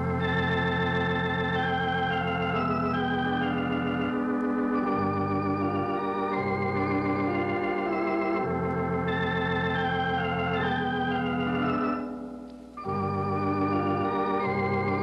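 Organ music: slow held chords with a wavering vibrato, changing every second or two, broken by a brief dip about twelve seconds in before the chords resume.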